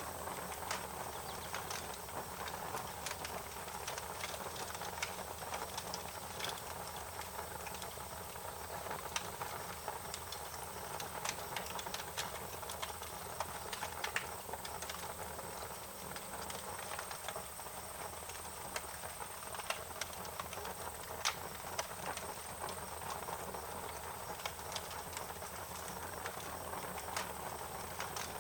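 Wood fire crackling, with frequent irregular sharp pops and snaps over a steady hiss, and a thin steady high-pitched tone running underneath.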